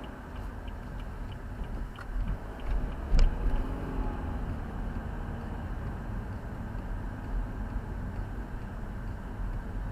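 Car cabin noise while driving: a steady low road and engine rumble. A faint regular ticking, about two a second, runs through the first two to three seconds, and there is one sharp click about three seconds in.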